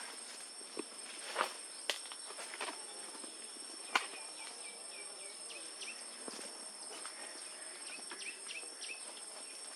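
Baby bird calling in runs of short, quick, slightly rising chirps, over a steady high drone of insects such as crickets. A few sharp taps or clicks stand out in the first half, the loudest about four seconds in.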